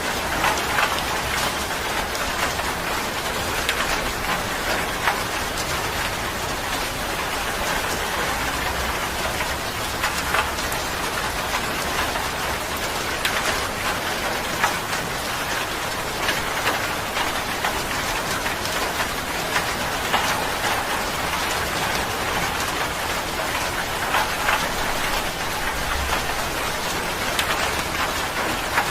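Steady rain falling, with many individual drops ticking on a surface close by.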